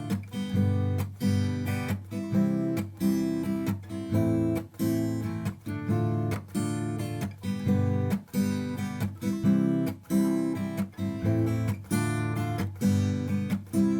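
Background music: an acoustic guitar strummed in a steady rhythm of chords.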